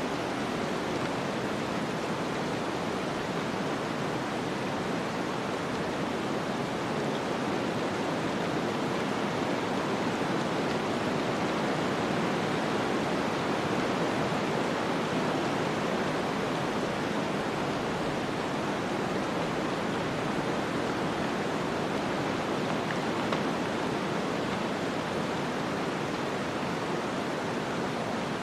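Snowstorm ambience: a steady, even rushing of wind and blowing snow that swells slightly midway.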